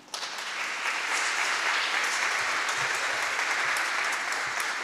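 Audience applauding, a steady clapping that starts suddenly as a choir's song ends and tails off slightly near the end.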